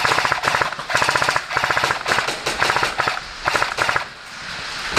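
Airsoft M249 Mk46 light machine gun firing on full auto in five or six short bursts of rapid clacking shots, with a lull just after four seconds.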